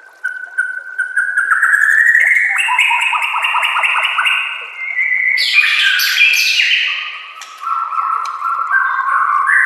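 White-rumped shama (murai batu) singing. A held whistle slides upward in pitch, then breaks into a rapid run of repeated notes and a string of varied, loud whistled phrases, some of them high and sharp.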